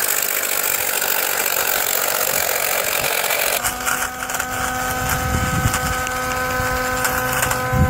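12-volt portable car tyre-inflator compressor running with a steady, noisy buzz. About three and a half seconds in, the sound changes abruptly to a steadier, more clearly pitched hum.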